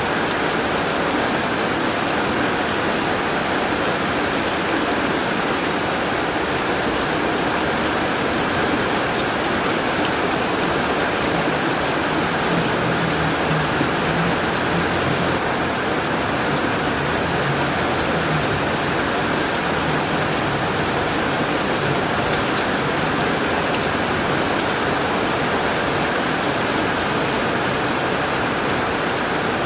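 Heavy rain drumming steadily on a tin roof, a dense, even patter with no let-up.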